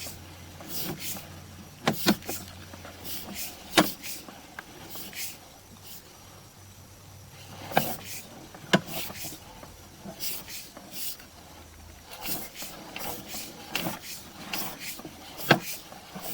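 Sewer inspection camera rig as its push cable is fed down a clay sewer line: irregular sharp clicks and knocks, a few of them loud, over a low hum that fades out about twelve seconds in.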